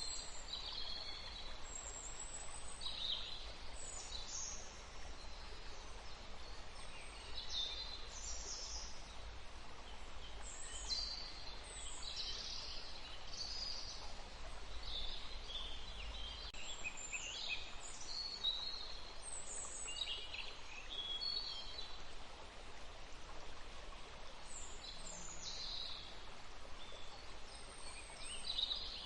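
Several songbirds chirping and trilling in quick, overlapping short calls over the steady rush of a forest stream.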